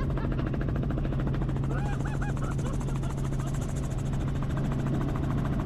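Helicopter running steadily: a constant low engine drone with a fast, even rotor chop, plus a few short, faint vocal-like chirps over it.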